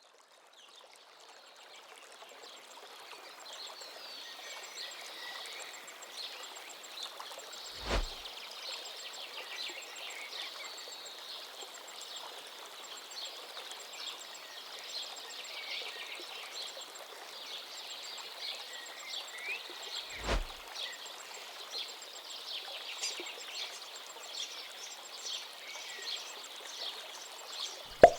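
Many small birds chirping and twittering over a steady outdoor hiss, fading in over the first few seconds. A dull thump comes about eight seconds in and another near twenty seconds.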